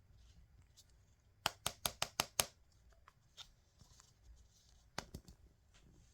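Sharp clicks from hands handling small objects: a quick run of about six, then a few fainter ones, and another short cluster about five seconds in.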